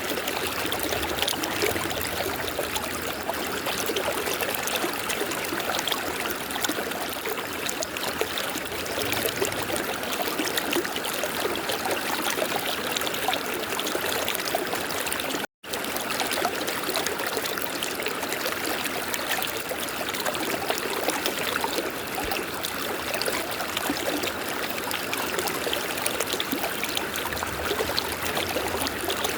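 River water flowing steadily. The sound cuts to silence for a split second about halfway through, then resumes unchanged.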